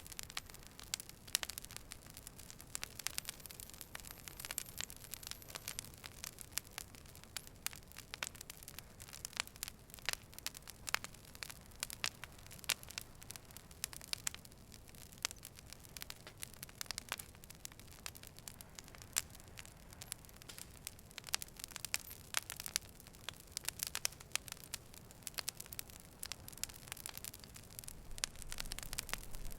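Fire crackling: a dense, irregular run of sharp pops and snaps over a low, steady hiss.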